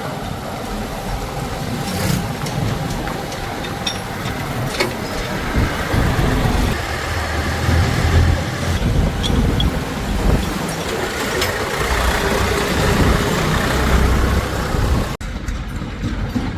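Diesel engines of heavy earth-moving machinery running, rising and falling in loudness as they work. There is an abrupt cut about 15 seconds in, after which the engine sound is duller.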